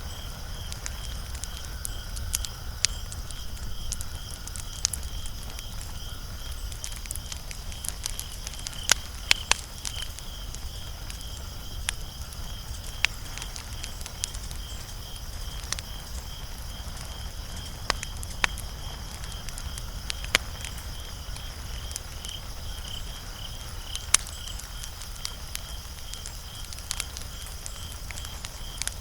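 Wood fire crackling, with irregular sharp pops, a few much louder than the rest. A steady, rapidly pulsing high chirr runs underneath.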